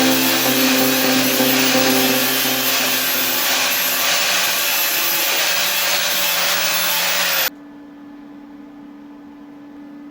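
A handheld electric power tool runs steadily with a loud hiss and a low whine, then is switched off and stops abruptly about seven and a half seconds in. A quiet, steady low hum remains after it.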